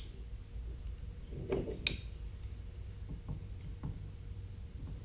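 A few small clicks and knocks from handling tools and parts, the loudest a sharp click about two seconds in, over a steady low hum.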